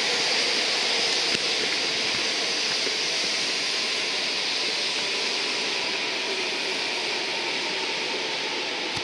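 E4 series Max double-decker Shinkansen moving away down the line, a steady rushing rumble of wheels and air that fades slowly and cuts off suddenly at the end.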